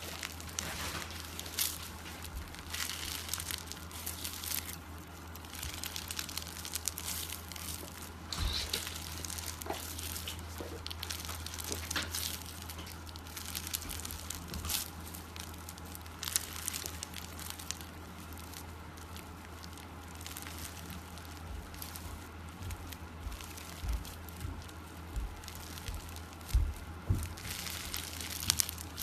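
Irregular crinkling and crackling handling noises with scattered sharp clicks, over a steady low hum.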